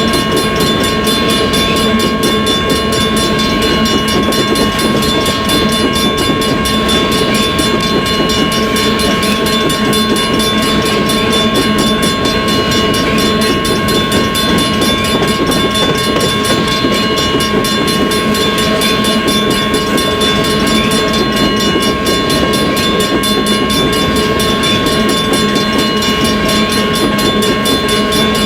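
BNSF coal train rolling steadily past: a continuous rumble of wheels on rail, with a steady high tone held over it.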